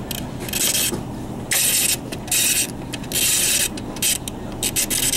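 Mechanical defrost timer's time dial being turned by hand, rasping in about five short bursts with a few clicks as it is wound round to the 12 o'clock setting, over a steady low hum.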